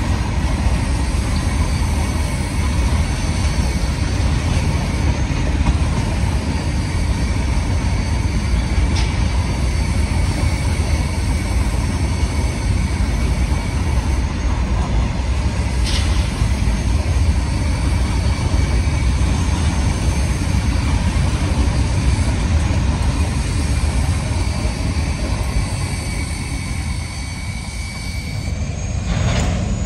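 Covered goods wagons of an Indian Railways freight train rolling past close by: a steady, loud rumble of steel wheels on rail, with a faint high whine and a few sharp clicks. The rumble eases near the end as the last wagons and the brake van go by.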